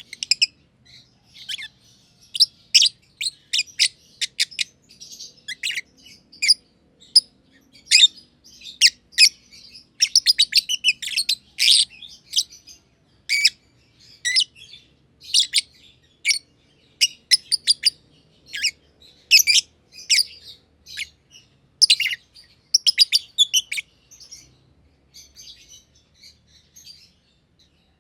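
Masked lovebirds (green and green-pied personata) chirping: rapid, irregular runs of short, sharp high chirps, busiest in the middle and thinning out toward the end.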